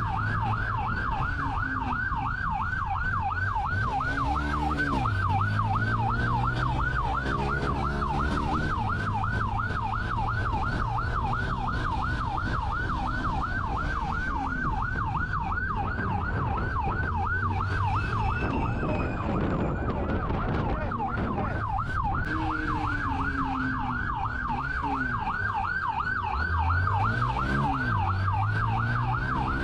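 Police car siren on a fast yelp, a rising-and-falling wail repeating several times a second, over the pursuing patrol car's engine. The siren dips under a rush of noise about two-thirds through, then comes back.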